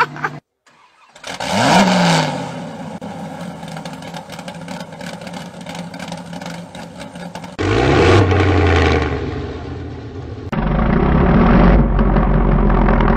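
Supercar engines revving in a run of short, abruptly cut clips. After a brief silence an engine revs up and settles. A second engine revs about two-thirds through, and near the end a louder, deep rumble takes over.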